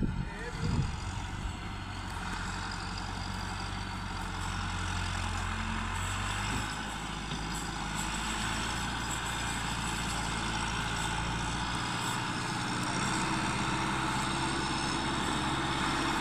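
Tractor engine running steadily while pulling a loaded sugarcane trolley; its low note shifts twice along the way.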